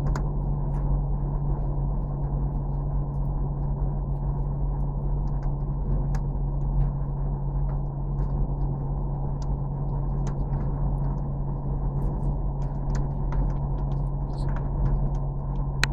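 Vehicle engine and road noise, a steady low drone with a strong hum, with scattered light ticks and rattles over it. It cuts off suddenly at the very end.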